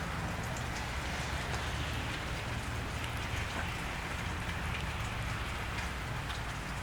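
Steady cold rain falling on wet pavement, with scattered small drips ticking through it and a low steady rumble underneath.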